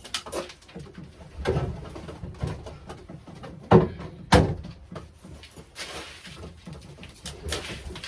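Racing pigeons in a loft, with scattered small clicks and two sharp knocks just after the middle, half a second apart.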